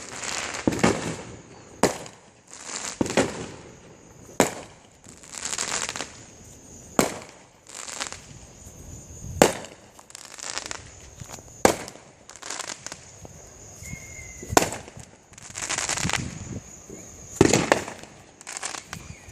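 Fireworks going off: a run of sharp bangs about every two to three seconds, many followed by about a second of crackling.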